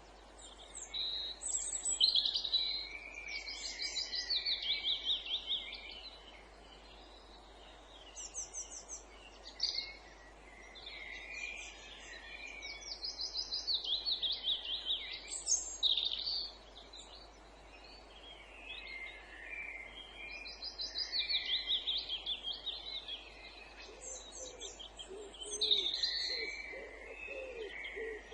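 Woodland chorus of several songbirds singing, with phrases of rapid trilled notes repeating every few seconds. A series of low cooing or hooting notes joins in near the end.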